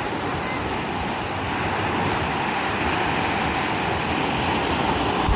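Ocean surf washing onto a beach as a steady rush of noise, growing a little louder about two seconds in.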